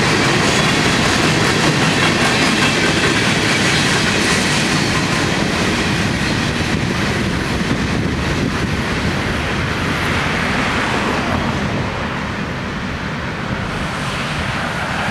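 Freight train of open-top gondola cars rolling past, steady wheel-on-rail noise that gradually fades as the last cars move off into the distance.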